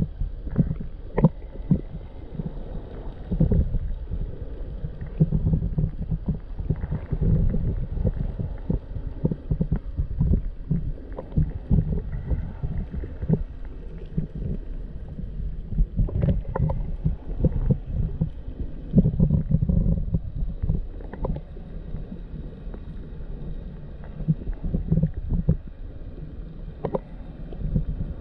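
Muffled underwater sound from a GoPro in its waterproof housing: low rumbling water movement with irregular small knocks and clicks.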